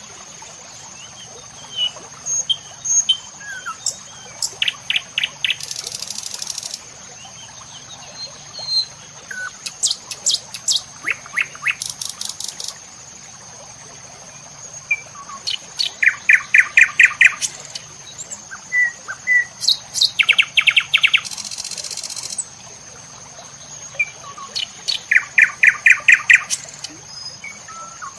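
Birds chirping in short series of quick, evenly spaced notes that repeat every second or two, over a steady high-pitched whine.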